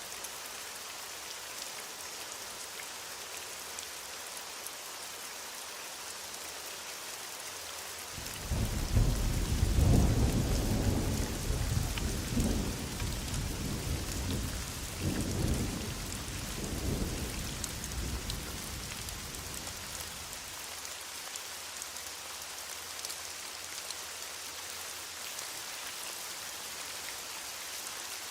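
Heavy rain falling steadily, with a long roll of distant thunder that builds about eight seconds in, rumbles in several surges and dies away about twenty seconds in.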